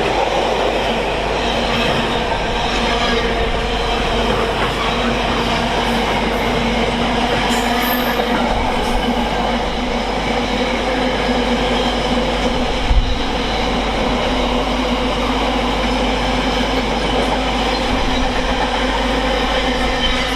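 Freight train hauled by a Class 70 diesel locomotive passing through: a loud, steady racket of rolling wagons and wheels on the rails, with held steady tones throughout and a brief knock about 13 seconds in.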